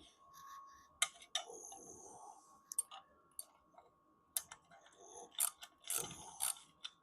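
Irregular metallic clicks and clinks of hand tools, a spanner and mole grips, working a seized, rusted bolt on a car's bumper overrider, over a faint steady high-pitched hum.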